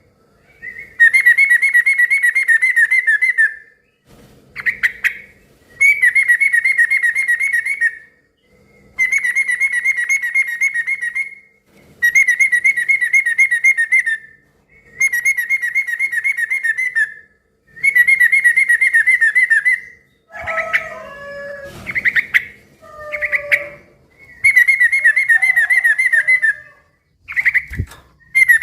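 Yellow-vented bulbul (trucukan) singing loud bubbly chattering phrases of rapid notes, each about two seconds long, repeated roughly every three seconds. Around two-thirds of the way in, the run of phrases breaks for a few shorter, lower gliding calls.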